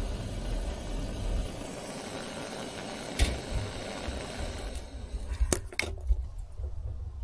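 A vehicle engine running steadily, which falls away about five seconds in, followed by a few sharp clicks.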